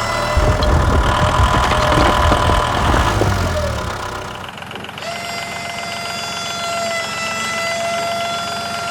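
Small motor running with a steady whine and a low rumble. It dips briefly about four and a half seconds in, then comes back a little higher in pitch and sags slowly.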